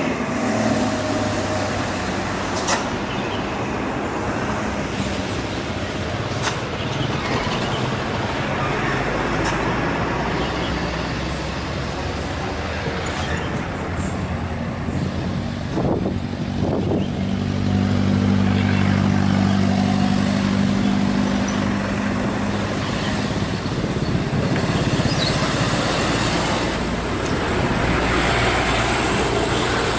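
Heavily loaded diesel truck engine labouring on a steep climb, a steady low drone that grows louder for several seconds past the middle.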